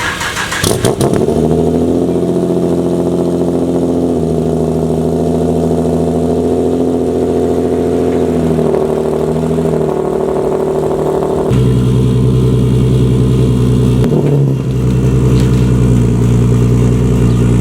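Turbocharged Nissan 370Z's V6 engine and exhaust running at a steady note while driving. The note shifts a few times and gets louder about two-thirds of the way through.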